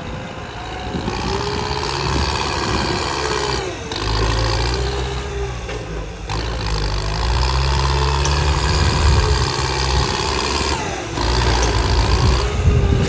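A truck's engine running under varying load, dipping briefly twice and then pulling harder.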